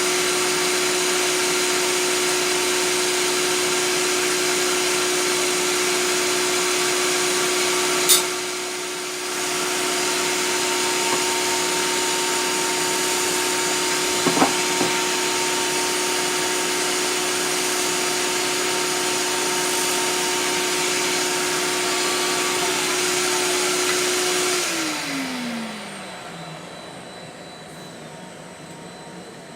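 Electric sharpening machine with a dry grinding wheel running at speed, a steady whine over a hiss, with a sharp click about eight seconds in and small ticks near the middle. Near the end it is switched off and the whine falls in pitch as the wheel spins down.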